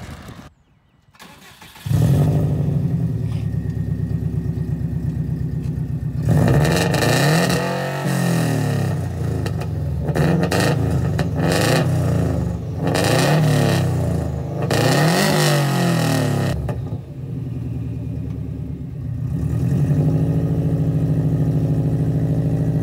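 Subaru Impreza's flat-four engine running: after a brief quiet gap it picks up about two seconds in, then is revved up and down over and over, about five rising and falling sweeps, before settling back to a steady run near the end.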